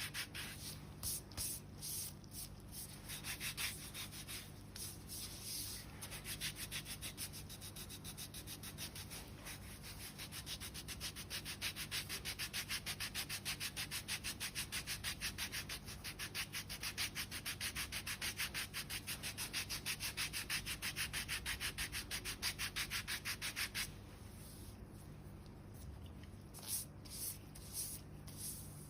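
A foot file rasping dry, callused skin on the sole in rapid, even back-and-forth strokes. The filing stops abruptly near the end, leaving only a few scattered strokes.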